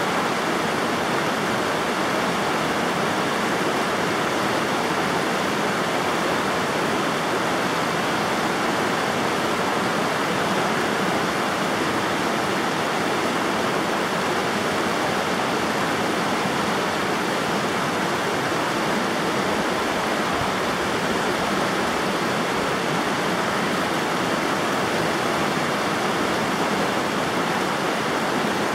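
River water rushing steadily, a continuous even noise with no breaks or changes.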